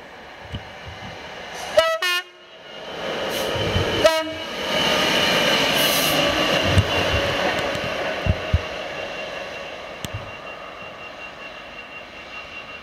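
EWS Class 66 diesel locomotive 66102, running light engine, sounds two short blasts on its horn about two seconds apart, then passes, its EMD two-stroke V12 and wheels swelling and fading away.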